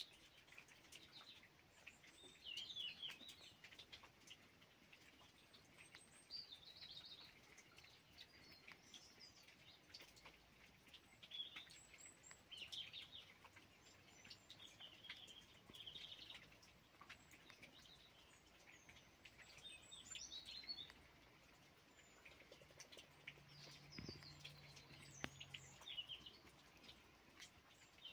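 Faint chirping of small birds, short calls scattered throughout, with a few soft clicks.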